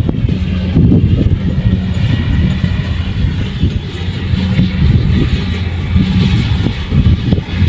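Kubota rice combine harvester's diesel engine running steadily at a constant pitch, with uneven low-end noise under the drone.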